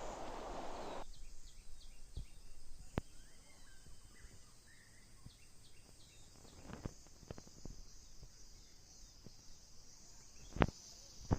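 Quiet countryside ambience: a steady high insect hum with a few short bird chirps, after background music fades out in the first second. A few sharp clicks stand out, the loudest two near the end.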